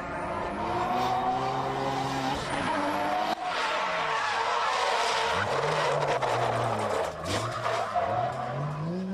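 Drift car's turbocharged 1JZ straight-six revving hard while the tyres squeal and skid through a slide. About a third of the way in the engine note drops, then rises and falls several times as the throttle is worked.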